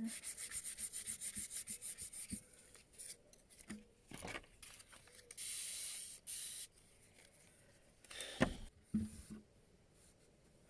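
Sandpaper rubbed by hand over wood filler on a wooden chair top: quick short strokes, about eight a second, for the first couple of seconds, then slower, longer strokes. A couple of sharp knocks come near the end.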